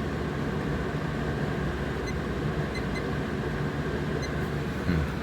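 Vintage Lakewood box fan running steadily on high speed: an even rush of moving air over a low motor hum.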